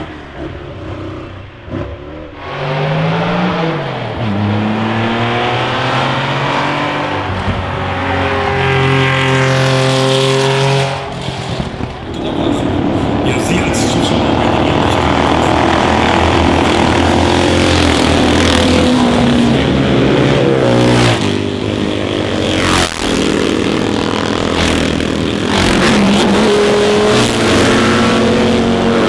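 Classic racing car engines accelerating hard up a hillclimb, revving up and dropping back with gear changes, several times over as cars pass one after another.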